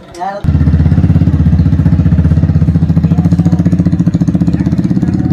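Small motorcycle engine running loudly with a fast, steady pulse, coming in abruptly about half a second in.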